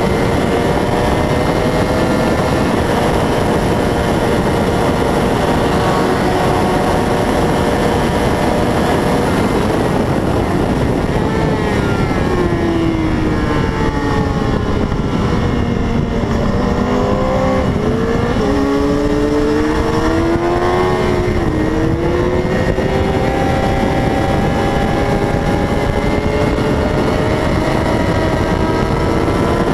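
600 cc racing motorcycle engine running at high revs under a steady rushing noise. About ten seconds in, the pitch falls in steps as the bike brakes and shifts down. It then climbs again as the bike accelerates away.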